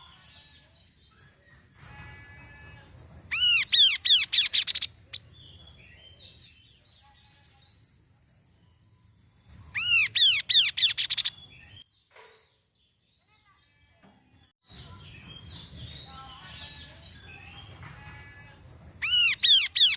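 Kaso-kaso bird singing: loud bursts of rapid, repeated arching whistled notes about every six to eight seconds, with softer chirps between them. The song breaks off briefly near the middle.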